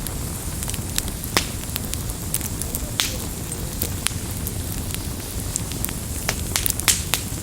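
Campfire burning, with burning wood crackling and snapping in irregular sharp pops over a low, steady rumble of the flames. A few louder snaps come about a second and a half in, around three seconds, and in a cluster near the end.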